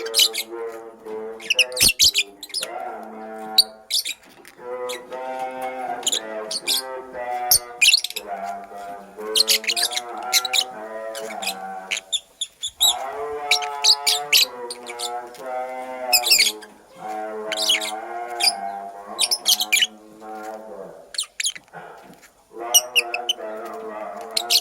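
Lovebird chirping in quick clusters of sharp, high chirps and squawks, over background music carrying a sustained melody that pauses briefly every few seconds.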